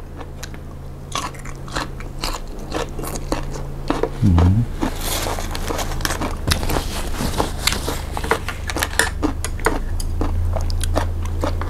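A person chewing and biting crunchy vegetables close to the microphone: many crisp crunches and mouth clicks, with a short hummed 'mm' about four seconds in. A steady low hum runs underneath.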